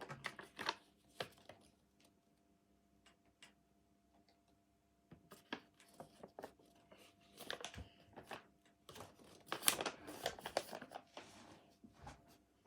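Paper being handled and folded: scattered crinkles, rustles and creasing sounds, with a lull of about three seconds near the start and then busier, louder handling.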